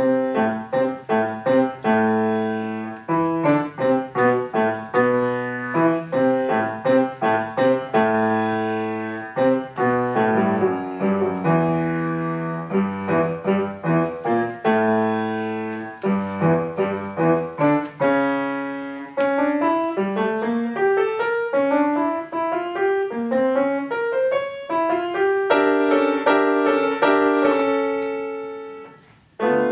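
Solo piano played by a first-year child pupil, a simple beginner's piece of steadily repeated notes and chords, starting from silence at the very beginning. Near the end the playing stops for about a second, then starts again.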